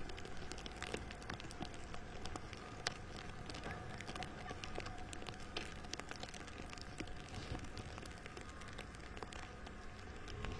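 Sleet pattering: a steady hiss dotted with many small scattered ticks.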